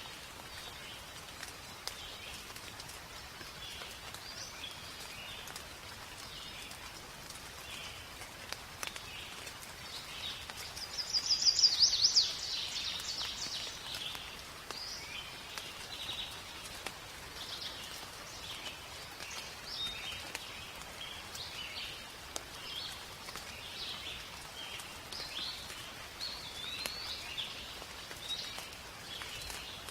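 Steady rain falling in a forest, with birds calling throughout. One bird gives a loud, rapid run of high notes about eleven seconds in.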